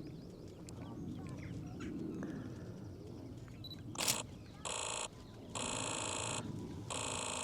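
Sony A9 III firing bursts of its rapid shutter sound, heard as a steady buzz that starts and stops abruptly. There are three bursts of under a second to nearly two seconds, after a sharp click about four seconds in. Faint birdsong comes before them.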